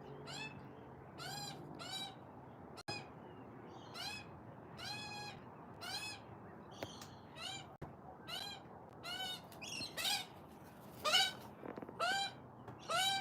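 A young bird begging with a long run of short calls, each rising in pitch, about two a second, loudest near the end.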